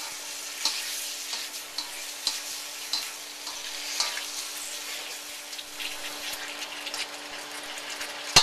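Pork rib tips sizzling in a hot wok while a slotted spatula stirs them, scraping and knocking against the wok about once a second over a steady hiss.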